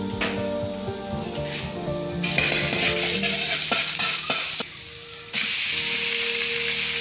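Minced garlic sizzling in hot oil in a steel wok, stirred with a metal spatula that clicks against the pan. The sizzle starts about two seconds in, breaks off briefly past the middle, then comes back as loud while raw duck pieces are tipped into the wok.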